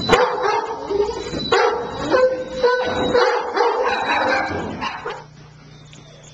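Several shelter dogs barking and yipping in quick succession, stopping about five seconds in.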